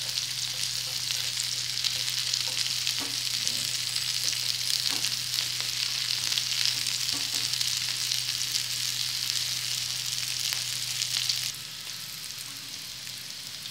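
Green chickpea fritters shallow-frying in mustard oil on a flat tava: a steady crackling sizzle, with a few light taps of a steel spatula against the pan. The sizzle drops abruptly to a quieter level near the end.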